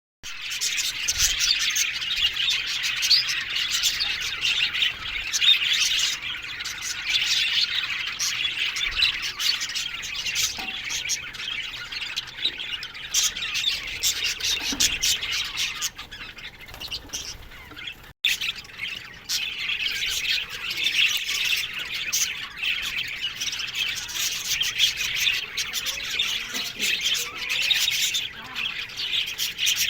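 A colony of budgerigars chattering together: a dense, continuous twitter of many overlapping chirps and squawks. It thins for a couple of seconds a little past halfway and cuts out for an instant before carrying on.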